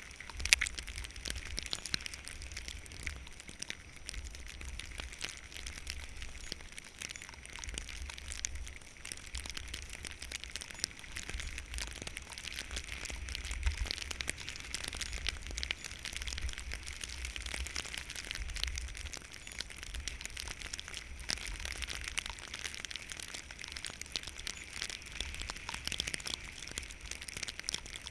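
Skis sliding and scraping over snow, a continuous crackling hiss, with wind buffeting the microphone as a low, uneven rumble. One sharper crack about half a second in.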